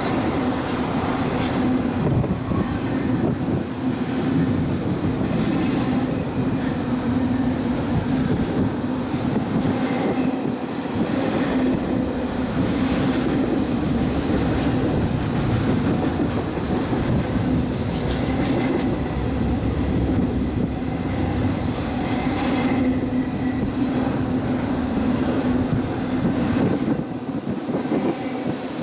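Intermodal freight train rolling steadily past, a continuous rumble and clatter of wheels on rail, with brief high-pitched flares every few seconds.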